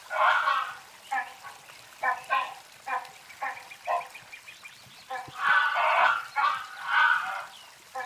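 A bird calling in a repeated series of rough, loud calls. A long call at the start is followed by a run of short calls, then two longer calls in the second half.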